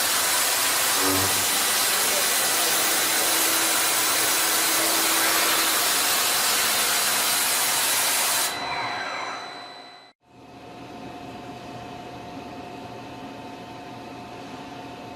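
Industrial cutting machine running with a loud, steady hiss that drops away a little after halfway and fades out. A quieter, steady machine noise with a faint hum follows.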